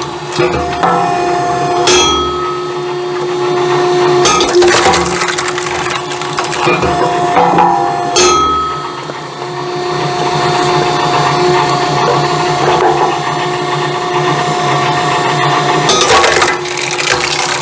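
Hydraulic firewood splitting machinery running with a steady hum. Four loud cracks and knocks of wood split apart and falling sound at uneven intervals.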